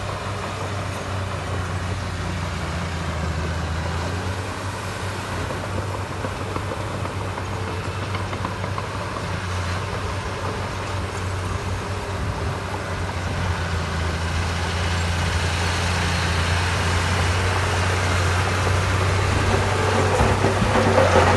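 Heavy diesel engine of construction machinery running steadily with a low hum, getting gradually louder over the second half.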